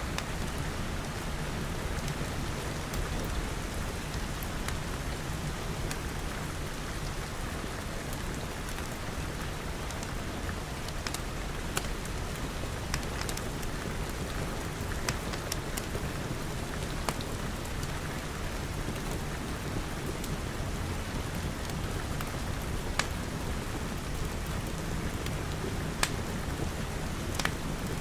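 Steady rain pattering, with a wood fire crackling over it in scattered sharp pops, a few louder ones near the end.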